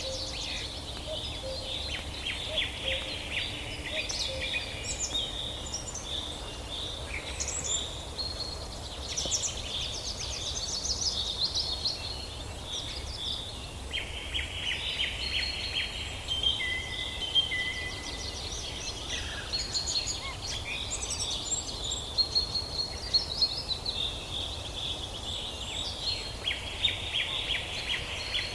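Several forest songbirds chirping and trilling over one another in a continuous dawn-chorus-like mix, with a steady low background rumble.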